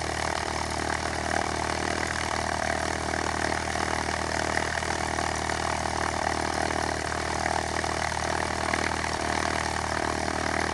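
Cessna 172K's four-cylinder Lycoming piston engine and propeller running steadily at an unchanging pitch, with a constant rushing noise over it.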